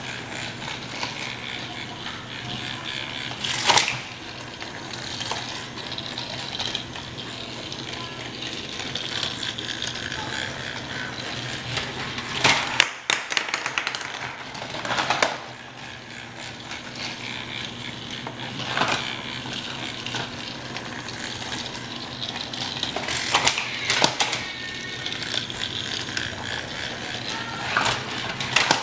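Battery-powered Trackmaster Thomas toy engine running on plastic track, its small motor and gears whirring steadily, with a louder plastic clack now and then, about six times.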